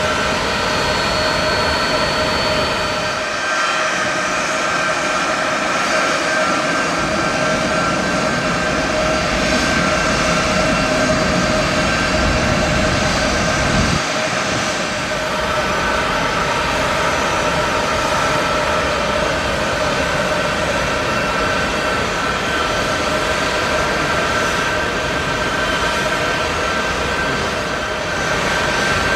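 Jet aircraft engines running steadily and loudly: a continuous roar with a high steady whine of several tones over it.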